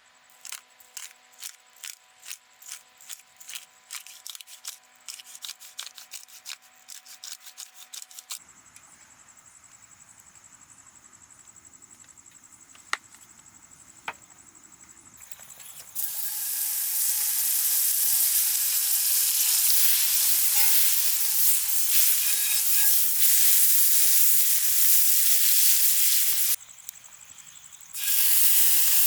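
A run of quick irregular clicks for the first several seconds. Then, a little past halfway, loud sizzling of food frying on a hot pan or griddle. The sizzle cuts off and comes back briefly near the end.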